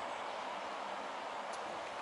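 Steady outdoor background noise: an even hiss with no distinct events and one faint tick about one and a half seconds in.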